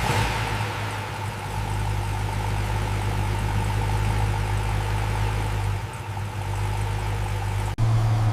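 Car engine idling steadily with a low, even hum. It cuts off abruptly near the end and comes back slightly louder.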